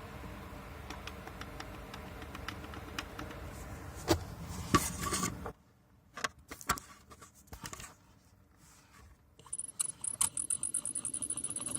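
Ford Focus 2 heater blower motor squeaking: a fast, high-pitched repeating chirp starts near the end as the fan begins to turn, the squeak of a motor worn by road dust drawn in with the outside air. Before it, a few light clicks over a low steady hiss.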